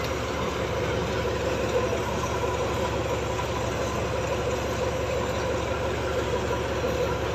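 Heavy diesel engines of the girder-lifting crane machines running steadily.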